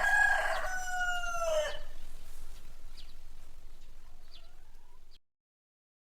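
Rooster crowing once, a long call that falls slightly in pitch at its end, followed by a few faint short calls. The recording cuts off abruptly about five seconds in.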